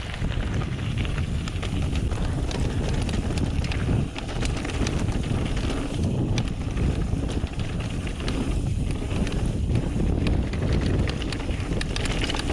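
Trek Remedy 8 mountain bike rolling fast down a dirt trail: steady wind rumble on the microphone over tyre noise, with frequent sharp clicks and rattles from the bike and the trail surface.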